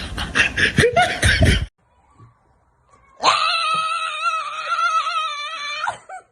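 Hearty laughter in quick pulses, cut off suddenly. After a short silence comes one long wavering howl from a dog, lasting about three seconds.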